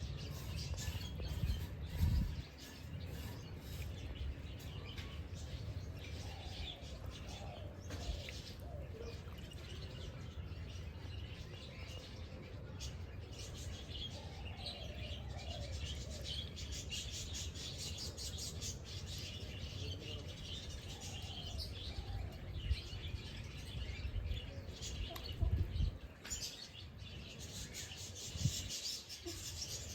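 Several birds chirping and twittering in quick, overlapping calls, with some lower gliding calls mixed in. A steady low rumble runs underneath, with a few dull thumps, about two seconds in and near the end.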